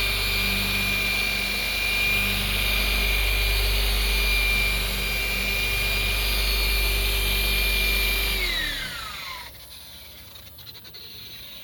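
DeWalt DWP849X rotary buffer running steadily on boat gelcoat, its motor whine held at one pitch. About eight seconds in it is switched off and the whine falls away as it spins down.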